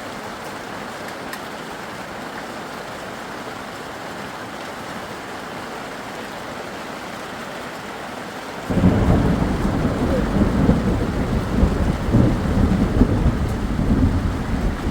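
Steady rain hiss, then, about nine seconds in, a loud low rumble of thunder breaks in suddenly and rolls on over the rain.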